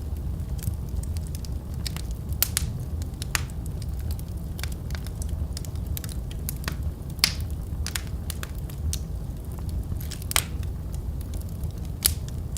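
Wood fire crackling in a fireplace: irregular sharp pops and snaps over a steady low rumble of the burning fire, with the loudest pops at about 2.5, 3.5, 7, 10 and 12 seconds in.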